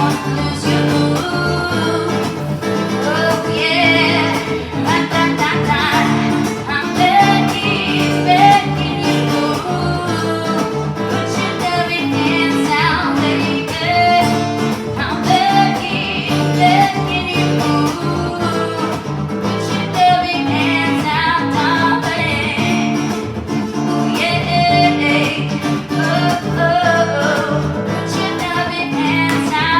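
Live music: an acoustic guitar being played, with singing.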